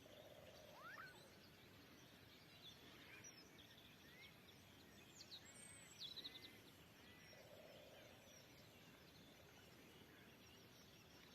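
Faint outdoor birdsong: several wild birds chirping and calling in short glides and quick trills, with a lower warbling call at the start and again about seven and a half seconds in.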